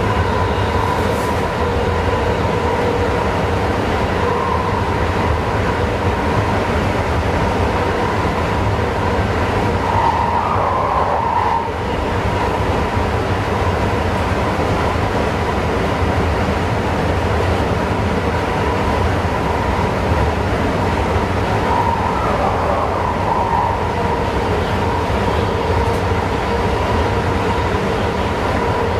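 Passenger train running steadily along the track, heard from the driver's cab: a constant rumble of running noise with a steady whine over it.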